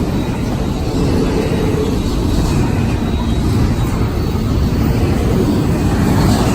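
Freight train cars rolling past at close range: a loud, steady rumble of wheels on rail.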